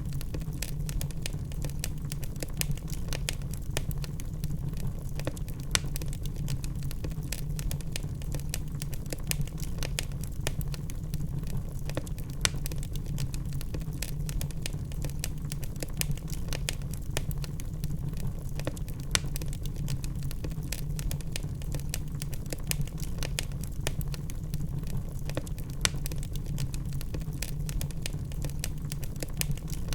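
Wood fire of burning logs crackling, with a dense, irregular stream of small sharp pops and now and then a louder snap, over a steady low rumble.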